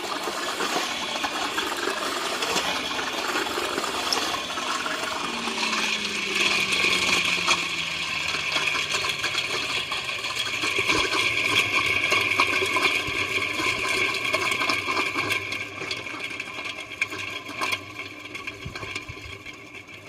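Antique Marvel non-electric push vacuum's wheel-driven fan whirring and rattling, its pitch sliding down as it coasts and slows. The sound grows fainter near the end as the vacuum nears a stop.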